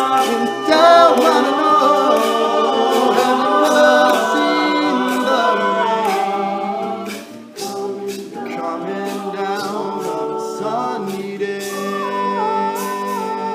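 Male a cappella group singing sustained wordless chords, with a melody line gliding above them and sharp percussive clicks keeping time. The sound dips briefly about seven seconds in before the chord comes back.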